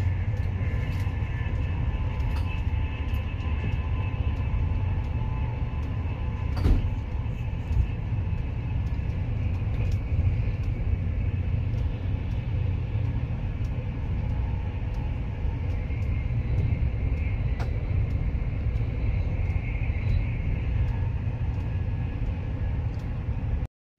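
Steady rumble of a passenger train coach at speed, about 155 km/h, heard from inside: wheel-on-rail and running noise. A single sharp knock comes about seven seconds in, and the sound drops out for a moment near the end.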